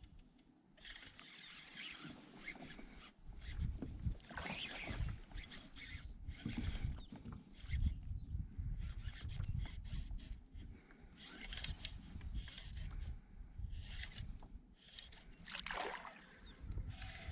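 Water sloshing and splashing against a kayak in uneven bursts every second or two, over a low rumble, with a short falling sweep near the end.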